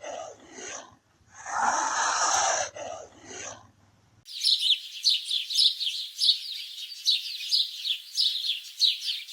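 Two harsh, breathy animal calls, each about a second long. About four seconds in they give way to a steady run of short, high-pitched chirps, several a second.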